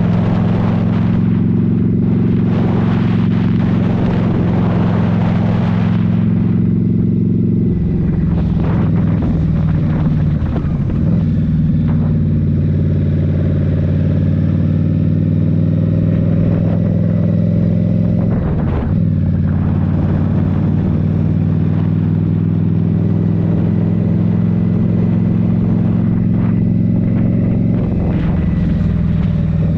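Indian Scout Rogue's 69 cubic-inch V-twin, fitted with a Rinehart slip-on exhaust, running at steady throttle while riding, its note breaking and shifting briefly a few times as the rider eases off or changes gear. Wind rushes over the microphone for the first few seconds.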